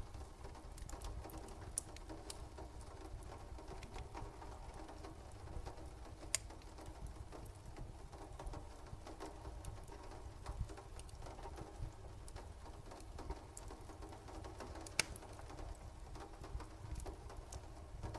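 Layered night ambience of rain and a crackling fire: a steady low rumble and soft patter, with scattered sharp pops, the loudest about six and fifteen seconds in.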